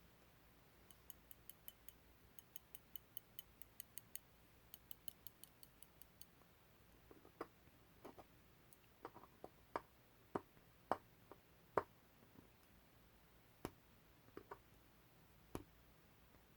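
Faint handling sounds from hands working masking tape: a run of light, even high ticks, about four a second, then a few seconds later irregular, louder clicks and taps.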